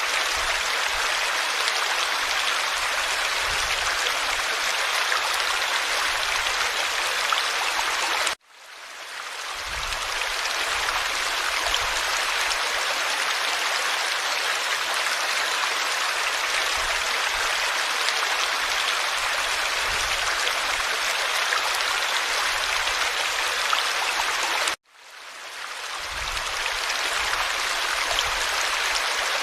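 Forest stream flowing steadily, an even rush of water. It cuts out abruptly twice, about 8 and 25 seconds in, and fades back in over a second or so each time.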